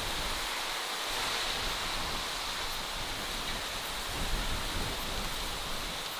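Steady natural outdoor ambience: an even rushing noise with a low rumble underneath, unchanging throughout.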